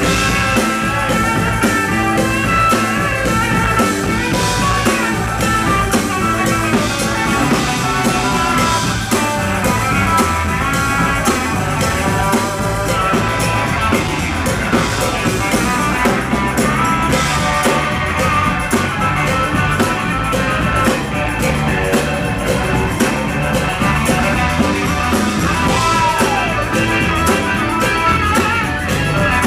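Soul-rock band playing live, with electric guitar and drum kit to the fore.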